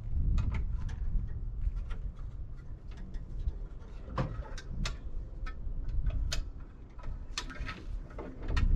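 Irregular sharp clicks and knocks, several a second at times, over a steady low rumble.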